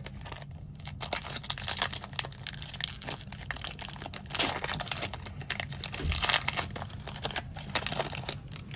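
Plastic trading-card packaging crinkling and tearing as it is ripped open by hand, in a dense, irregular run of crackles.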